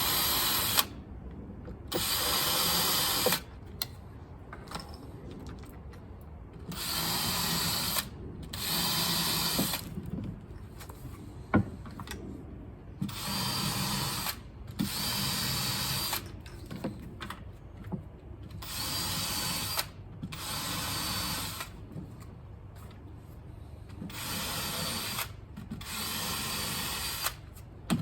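Power drill running in about ten short bursts of roughly a second each, mostly in pairs, while pre-drilling and driving Cortex hidden-fastener screws through composite decking into the joists. There are a few sharp clicks in the gaps between runs.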